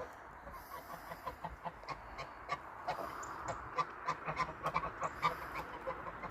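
Geese and ducks calling in a rapid string of short honks and quacks, busiest and loudest in the second half.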